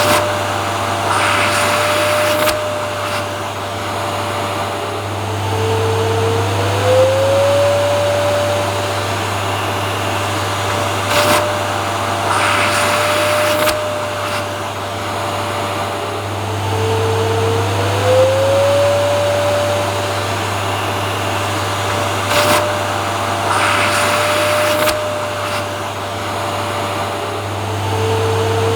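Vacuum cleaner running steadily with a low hum and a motor whine. About every eleven seconds the whine dips and glides back up in pitch, and there is a short burst of rushing, crackly noise.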